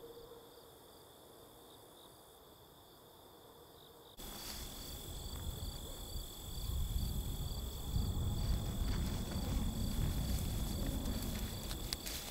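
Insects trilling steadily, with a high continuous tone and a row of short chirps repeating a few times a second. About four seconds in, the sound suddenly gets louder. A low rumbling noise joins a couple of seconds later.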